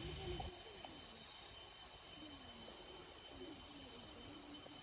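Insects, crickets or cicadas, chirring in a steady, continuous high-pitched chorus.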